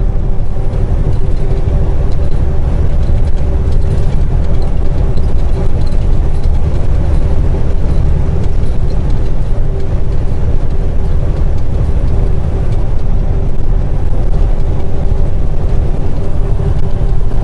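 Semi truck driving at a steady speed, heard inside the cab: a constant low diesel drone and road rumble with a steady hum over it.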